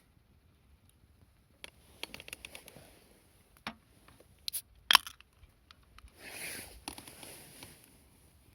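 Small handling noises: a run of light clicks and scrapes, one sharp louder click about five seconds in, then a brief rustle.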